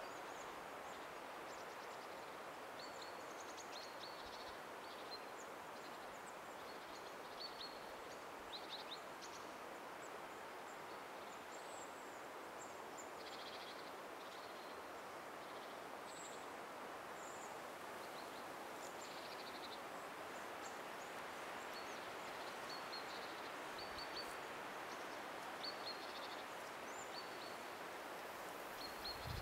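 Quiet forest ambience: a steady low hush with small birds chirping faintly and repeatedly throughout.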